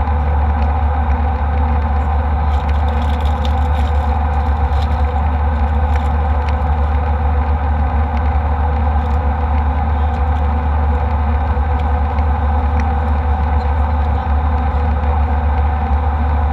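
Steady cabin noise of an Embraer E190 airliner in flight: the deep, even rumble of its turbofan engines and the airflow, with a few light clicks a few seconds in.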